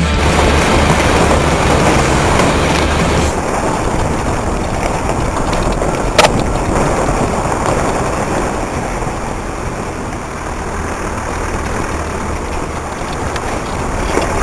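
Rock music ends about three seconds in, giving way to an off-road vehicle driving over rough ground, its engine running under a dense rumbling noise. There is one sharp knock about six seconds in.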